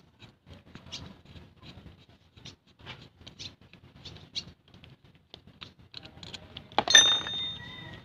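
Small metallic clicks and scrapes of hands working the cast cylinder head and bolts of a truck air compressor, then, about seven seconds in, one sharp metal clank that rings on for about a second.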